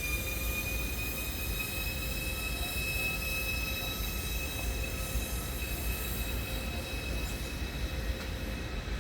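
Electric train moving in a station: a high whine of several tones that slowly rises in pitch, over a steady low rumble.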